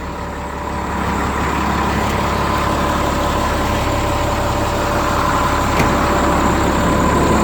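The Caterpillar diesel engine of a 2000 Chevrolet C6500 box truck idling steadily, a little louder from about a second in.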